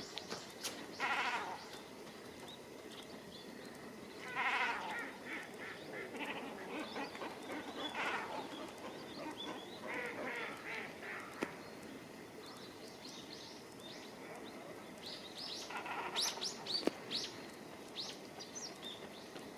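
Great cormorants calling in a colony: several harsh, bleating, wavering calls about half a second to a second long, spaced a few seconds apart. Short high chirps cluster near the end.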